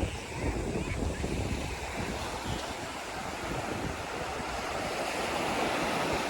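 Sea waves washing onto the beach, the surf swelling in the second half. Wind buffets the microphone with a low rumble.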